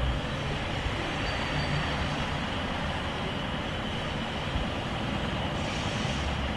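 Loaded freight cars of a wheat train rolling past, a steady rumble of steel wheels on the rails.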